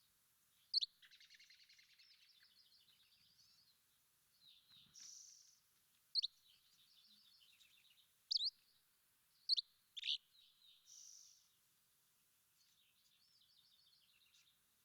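Songbirds singing and calling. Loud, sharp, quickly falling high notes come about six times at uneven intervals, over quieter twittering trills and short hissy notes.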